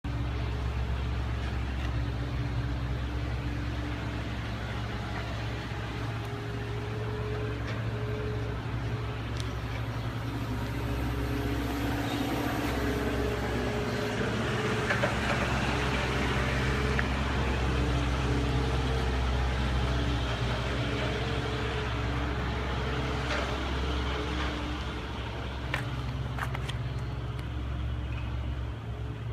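A motor vehicle running steadily, with a continuous low hum.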